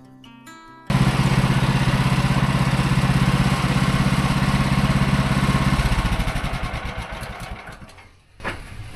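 Guitar music stops about a second in and a small gasoline engine, most likely the sawmill's, is heard running with an even pulse. After a few seconds it winds down and stops, followed by a sharp knock near the end.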